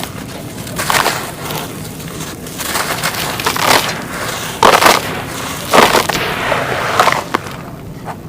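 Dry sandy clay crushed and crumbled by hand: a run of crunchy, gritty crumbles, quieter near the end.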